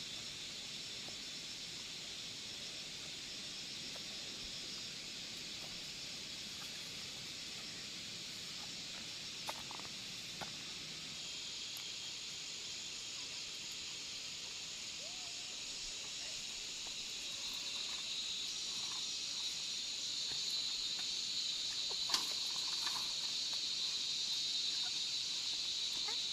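Steady high-pitched chorus of insects, which grows a little louder past the middle, with a few faint clicks.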